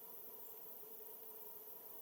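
Faint steady background hiss with a low steady hum underneath; no distinct calls or knocks.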